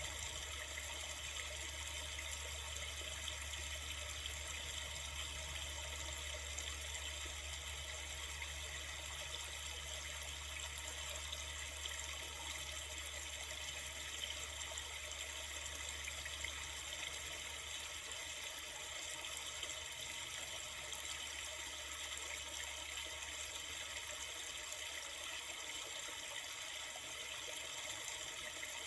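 Steady rushing of a river: an even, unbroken hiss of flowing water. A low rumble beneath it drops away a little past halfway.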